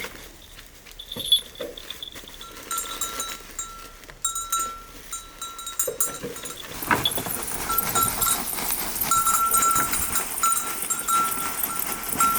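A flock of livestock bleating, with bells ringing on and off, and the sound grows louder and busier from about seven seconds in.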